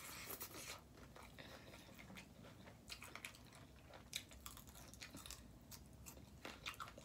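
Faint, close-up chewing of a mouthful of taco, with irregular soft mouth clicks.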